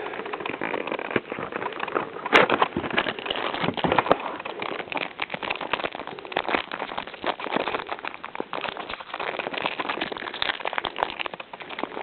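Foil Yu-Gi-Oh booster pack wrapper crinkling as it is handled and opened: a dense, continuous run of crackles.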